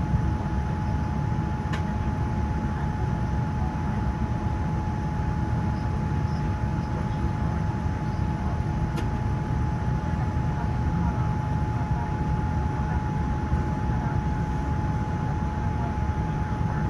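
Steady cabin noise inside a Boeing 787-10: a constant low rumble with a single steady whine held at one pitch, and two faint clicks.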